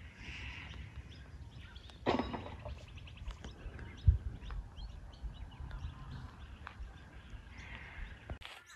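Birds chirping and calling over a low rumble, with a louder burst about two seconds in and a dull thump about four seconds in.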